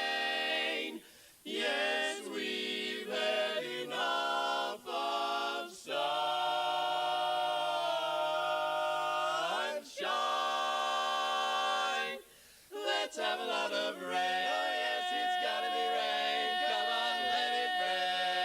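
Barbershop quartet singing a cappella in close harmony, holding long sustained chords broken by a few short breaths. A final chord is held steady for the last few seconds.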